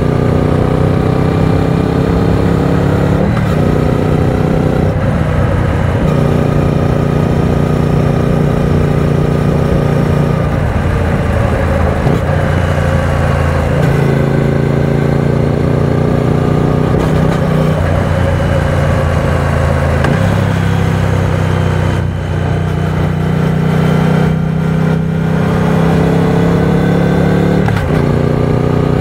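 Triumph Speed Twin 900 motorcycle's parallel-twin engine running under load at road speed, heard from the rider's seat. Its pitch climbs slowly and drops back several times, as at gear or throttle changes.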